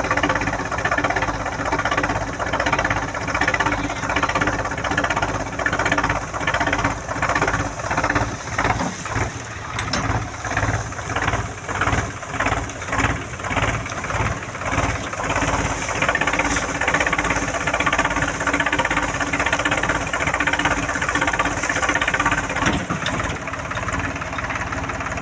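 Swaraj 735 tractor's diesel engine running steadily, its loudness pulsing about once a second through the middle stretch.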